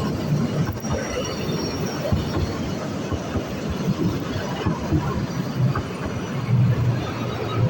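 Narrow-gauge train running along the track, a steady rumble with faint high squeals from the wheels.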